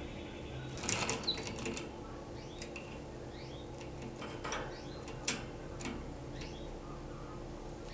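Scattered sharp clicks and taps, with a cluster about a second in, along with a few faint short rising chirps from a canary; a steady low hum runs underneath.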